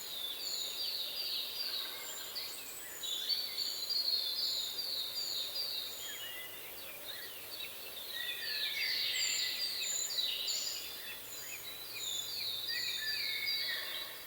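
Birdsong: several birds singing, with repeated quick runs of short, high, falling notes and a thin higher series of short notes, over a faint steady hiss.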